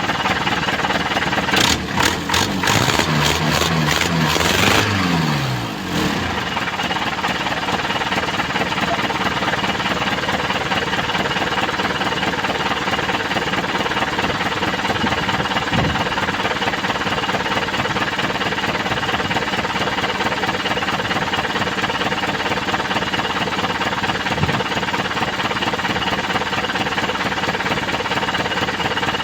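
Mitsubishi Canter 4D32 four-cylinder diesel engine running after an injector rebuild. It revs up briefly in the first few seconds amid a run of sharp clicks, then settles into a steady idle. The exhaust is leaking.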